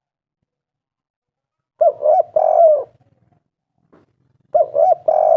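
Spotted dove cooing: two calls a couple of seconds apart, each two short coos followed by a longer, drawn-out coo.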